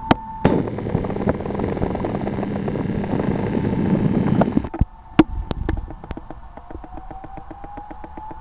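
Tatra T3 tram: a loud rushing hiss for about four seconds that cuts off suddenly, followed by a few sharp clunks. Then a whine that slowly rises in pitch with a fast, regular clicking, as the tram moves off.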